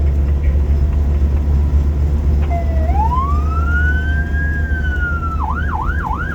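Fire truck accelerating hard at speed, its engine and road noise making a loud, steady low drone. About two and a half seconds in, a siren starts, wails up and holds high, then near the end switches to a fast yelp.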